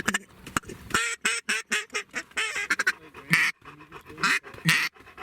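Ducks quacking in a rapid, broken series of short calls.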